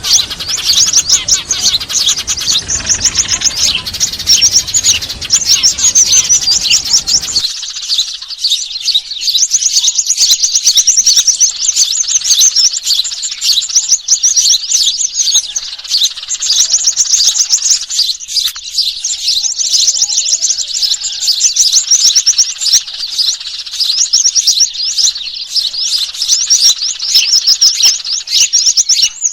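Dense, rapid, agitated chirping and twittering of many small birds, a lure call mixing noisy Eurasian tree sparrows with other small songbirds. About seven seconds in, the low background noise under the chirps drops out suddenly where the recording is spliced.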